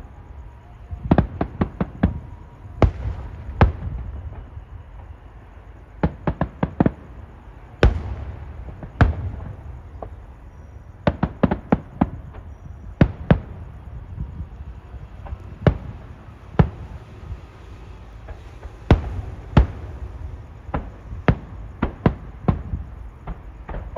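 Fireworks display: sharp bangs of bursting shells, some single and some in quick runs of four or five, over a steady low rumble.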